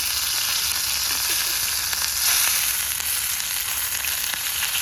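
Steak sizzling on a Coleman propane camping stove, a steady hiss with small crackles, the burner on a high heat that is charring the meat.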